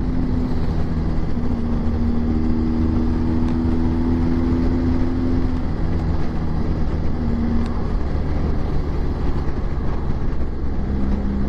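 Motorcycle engine running at a steady road cruise, heard from the rider's seat with wind rush on the microphone; the engine note steps in pitch a few times.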